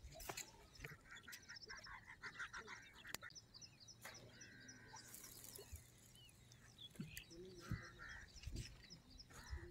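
Faint calls and chirps of several birds, coming in short repeated runs, with a soft click about three seconds in.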